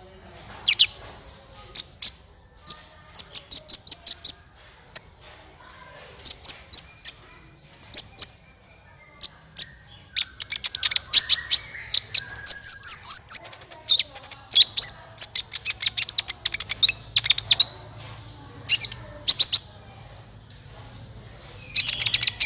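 Kolibri ninja sunbird song used as a bird-trapping lure: clusters of rapid, high, sharp chirps and trills, with a short held whistle about halfway through.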